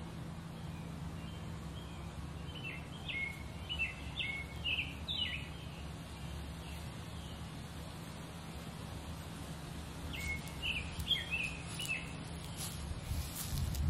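Small songbirds chirping in short, quick phrases, once a few seconds in and again about ten seconds in, over a steady low background rumble.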